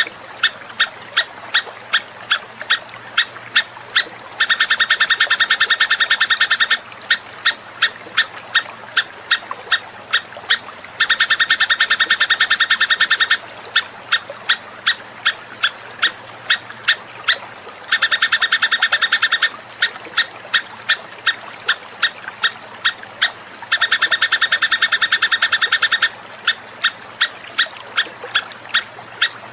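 Looped songbird call played as a tutor recording: harsh buzzing trills about two seconds long, four of them, alternating with runs of short sharp chips at about two to three a second.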